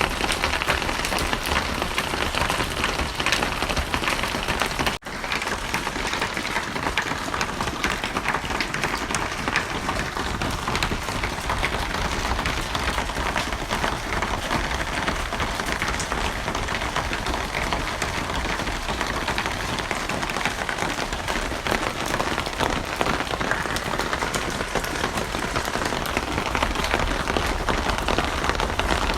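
Steady, dense rainfall, drops hitting a surface without let-up; the sound cuts out for an instant about five seconds in, then carries on unchanged.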